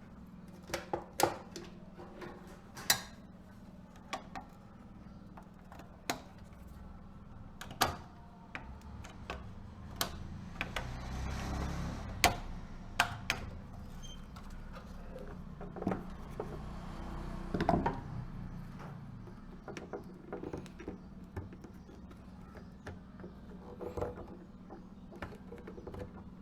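Irregular clicks and knocks of small parts and tools being handled, with a longer scraping, rustling stretch about eleven seconds in and again near eighteen seconds, over a steady low hum.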